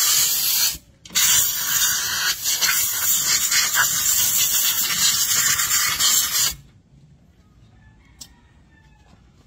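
Aerosol cleaner hissing from a spray can onto the rusty brake-shoe contact points of a drum brake, cleaning off the rust behind the squeak. A short burst, a brief break, then a long burst of about five seconds that cuts off sharply.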